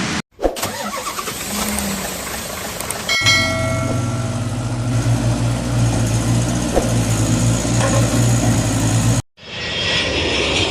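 Edited sound-effect clips: a noisy stretch, then a sharp click about three seconds in and an engine starting and running with a steady low hum. It cuts off abruptly about nine seconds in, and a different engine noise takes over.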